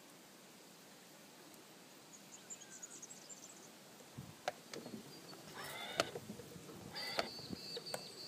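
Faint bird calls and high chirps, with a few sharp clicks and knocks in the second half.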